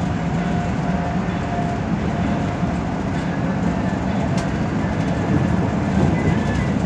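Steady interior rumble of a metropolitan express bus under way, engine and road noise heard from inside the cabin, with a faint whine now and then.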